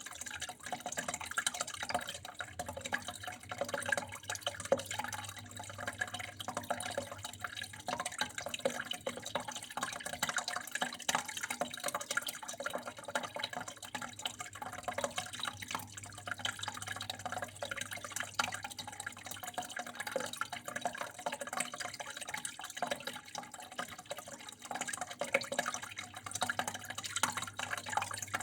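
Water flowing and trickling steadily, full of small splashes and drips, over a faint steady low hum.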